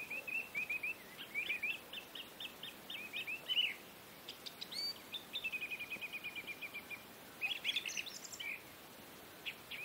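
Small birds chirping: many quick high chirps and short whistled notes, with a fast, even trill of repeated notes in the middle.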